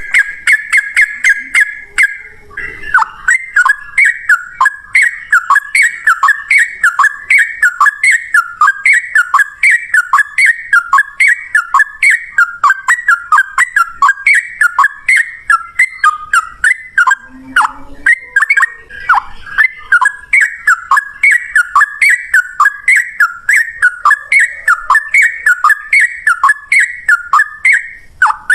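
Yellow-vented bulbul song: a rapid, unbroken run of short, repeated chirping phrases, about two a second, after a brief steady whistled note at the start.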